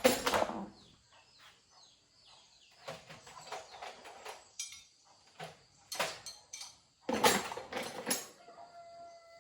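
Scattered sharp knocks and clatter, loudest at the start and about seven seconds in, with chickens clucking; near the end a rooster begins a long, steady crow.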